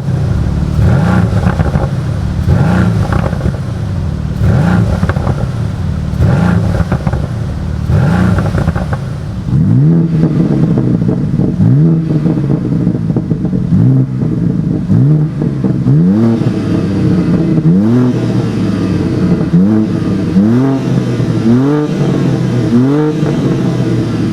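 High-performance car engine revving hard again and again, its pitch climbing and dropping about every second or two.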